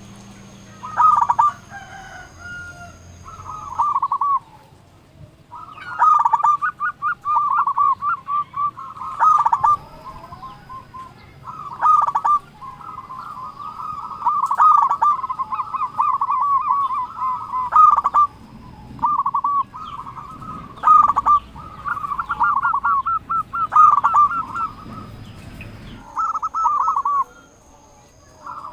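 Zebra dove (perkutut) cooing: phrase after phrase of rapid, trilling coo notes, sounding almost without a break for much of the time with a few short pauses.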